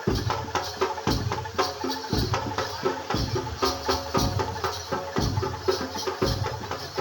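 Javanese gamelan ensemble accompanying a kuda lumping dance: a heavy low drum stroke about once a second, with fast clicking percussion and ringing metallic tones between the strokes.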